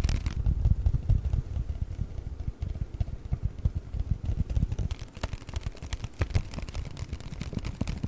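Paper bag handled close to the microphone for ASMR: a fast, dense run of soft low thumps and rustles, with crisper crackles joining in after about five seconds.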